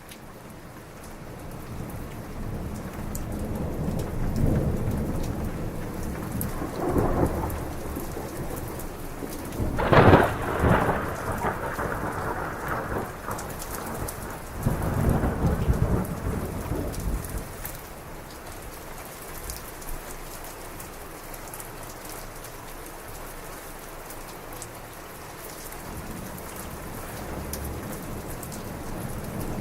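Heavy rain pouring down with rolling thunder, fading in at the start. Long low rumbles build through the first half, a sharp thunderclap about ten seconds in is the loudest moment, more rumbling follows, then mostly steady rain until the thunder grows again near the end.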